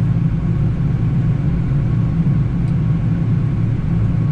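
Steady low rumble of airflow and engines on a Boeing 787-9 flight deck in the landing flare, a few feet above the runway.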